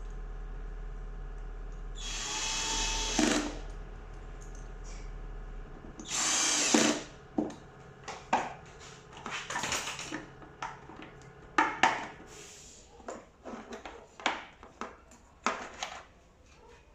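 Power drill running in two short bursts, about two seconds in and about six seconds in, as when driving screws during assembly. A string of clicks and knocks follows as parts are handled.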